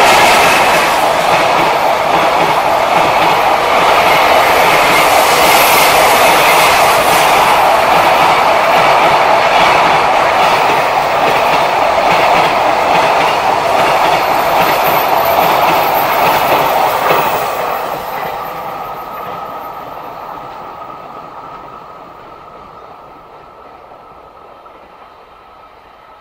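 Container wagons of a JR Freight train rolling past close by, a steady loud rumble and rattle of wheels on the rails. About seventeen seconds in it begins to fade steadily as the train draws away.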